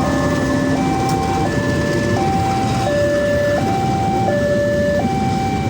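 Two-tone electronic warning alarm steadily alternating a high and a low tone, each held about three quarters of a second, over a steady low rumble.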